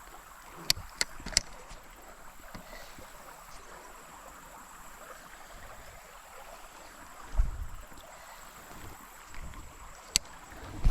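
Quiet water moving around a kayak on a shallow creek, with three sharp clicks in the first second and a half, a dull low knock about seven seconds in, and another click near the end.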